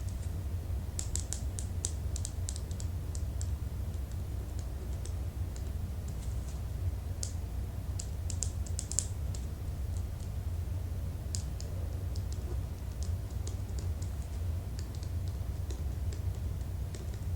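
Typing on a computer keyboard: irregular runs of quick key clicks with short pauses between them, over a low steady hum.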